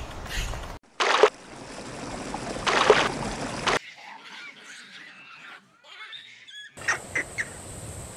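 Wild animal calls across a run of short clips: two loud, harsh screeching calls in the first half, a quieter stretch, then a quick series of short high chirps near the end.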